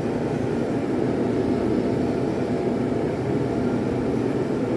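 Forge running with a steady, unbroken roar that neither rises nor falls.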